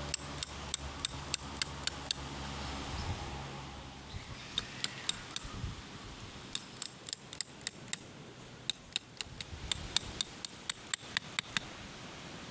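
Runs of sharp, short taps or clicks, about three to four a second, with wind in the background; a low steady hum fades out about a third of the way in.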